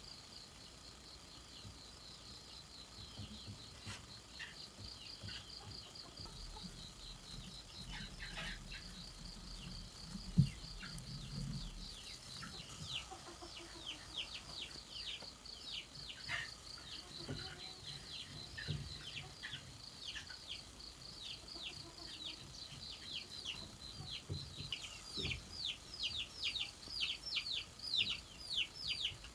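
Chicks peeping in a run of short, high, falling chirps that come thicker and louder toward the end, over a steady high whine of insects. One sharp knock about ten seconds in.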